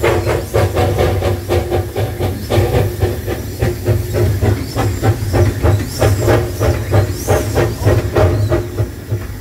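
Narrow-gauge Hudswell Clarke steam locomotive working, its chuffing exhaust beats coming about four a second. The beats stop shortly before the end, leaving a steady steam hiss.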